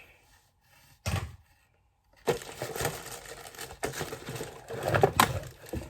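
Packaging being handled while unboxing a mini chainsaw: a short knock about a second in, then continuous crinkling and rustling from about two seconds in, with a few sharp clicks.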